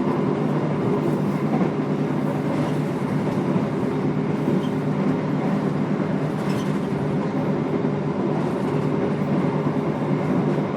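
Steady interior rumble of a moving passenger train heard inside the carriage, with a constant low hum and faint occasional ticks.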